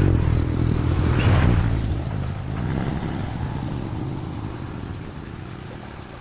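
A motor vehicle's engine running: it comes in suddenly, is loudest about a second in, then slowly fades.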